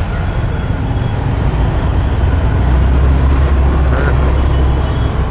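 Motorbike riding through city traffic: a steady engine, road and traffic rumble, growing into a heavier low rumble about halfway through.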